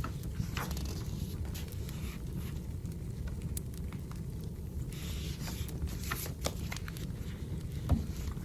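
Wood fire burning: a steady low rumble with scattered crackles and snaps, and one louder pop near the end.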